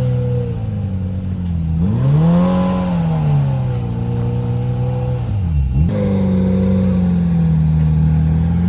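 Side-by-side UTV engine revving up and down under load on a steep, muddy hill climb. The revs fall away about half a second in, rise and fall again, drop almost to idle about five and a half seconds in, then climb back up and hold.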